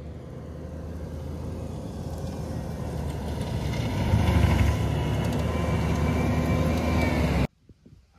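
Skid-steer loader running a forestry mulcher attachment: a steady engine and hydraulic drone that grows louder over the first few seconds, then cuts off suddenly near the end.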